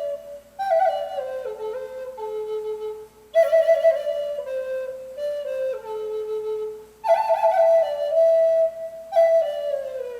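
Native American flute playing a slow solo melody in phrases that each start high and step downward in pitch, with short breath pauses between phrases.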